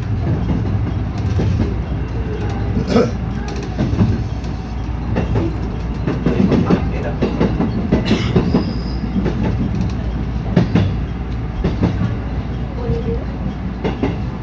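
JR West 207-series commuter train running, its wheels rumbling and clattering irregularly over rail joints, heard from inside the front car.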